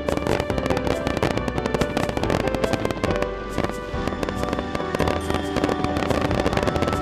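Aerial fireworks bursting with dense crackling, many sharp cracks in quick succession, over background music.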